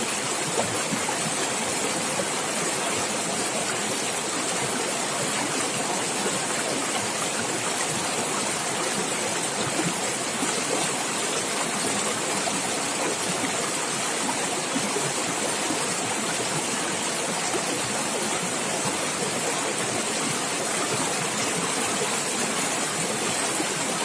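Running stream water gurgling and splashing steadily, a constant rushing hiss.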